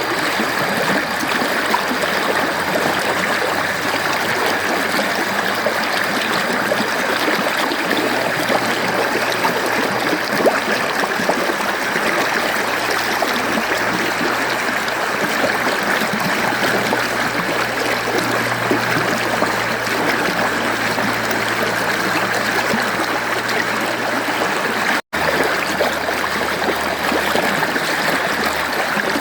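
Mountain stream flowing steadily, an even rush of water with trickling, with a split-second dropout about 25 seconds in.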